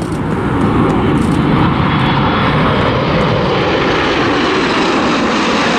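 Red Arrows' BAE Hawk T1 jets making a low, fast pass: a loud rushing jet-engine noise that builds over the first second and then holds steady.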